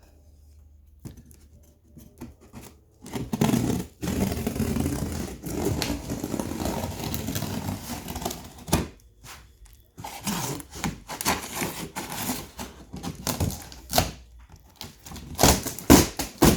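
Cardboard packaging being opened by hand. After a quiet start comes about five seconds of continuous tearing and rustling, then a run of irregular knocks and scrapes as the box is handled.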